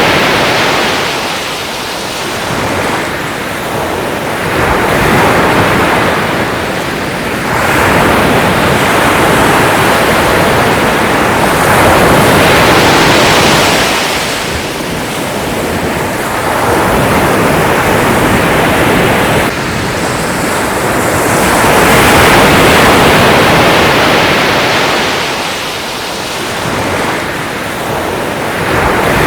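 Sea waves washing in and drawing back, a steady rush of surf that swells and eases every few seconds.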